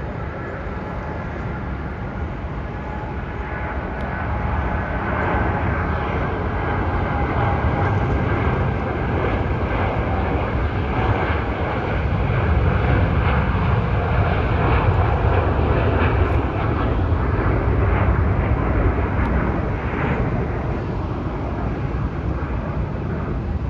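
Boeing 787 Dreamliner taking off: the roar of its twin jet engines at takeoff thrust, with a faint high whine in it. It grows louder over the first several seconds, holds through the middle and eases a little near the end.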